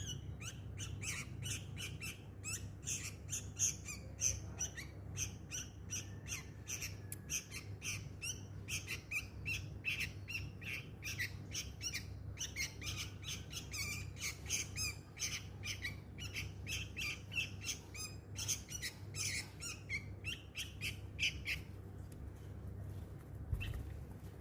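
Sooty-headed bulbul (kutilang) giving rapid runs of short, sharp chirps and squawks that stop a couple of seconds before the end, over a steady low hum.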